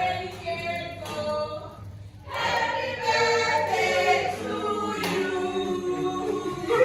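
Choral singing: several voices holding long notes together, with a short break about two seconds in.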